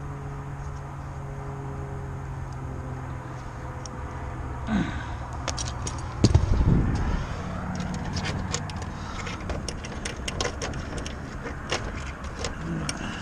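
Light metallic clicks and ticks of hand tools working old wire out of a heat pump's electrical connection, over a steady low hum that stops about six seconds in, just as a low thump sounds.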